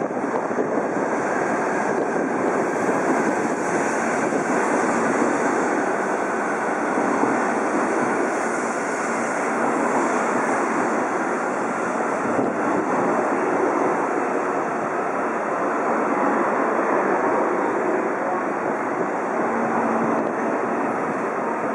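JR East E2 series Shinkansen cars moving along the platform edge close by: a steady, even noise of wheels and moving air that holds without break.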